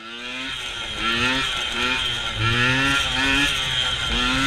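Small dirt bike engine revving, its pitch climbing and falling back about six times in quick succession.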